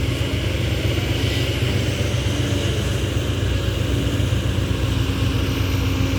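Heavy diesel engine running steadily, a deep, evenly pulsing rumble.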